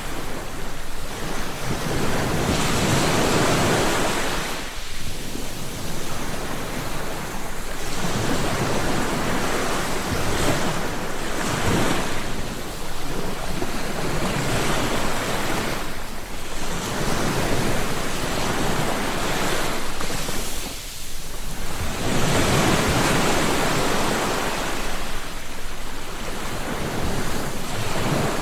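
Ocean waves breaking and washing up on a shore, a steady rush of surf that swells and falls back every few seconds.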